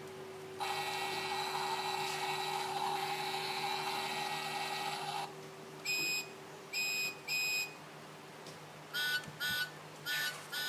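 Electronic sound effects from a children's push-button sound book's small speaker. First a hissing sound with a steady tone in it lasts about five seconds. Then come three identical electronic beeps, and near the end four quicker two-tone beeps.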